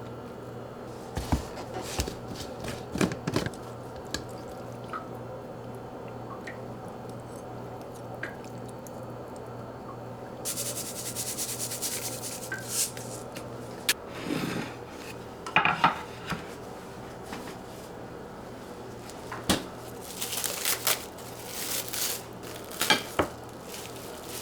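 Kitchen handling sounds: scattered clinks and knocks of dishes and utensils over a steady low hum, with a few seconds of steady hiss about ten seconds in.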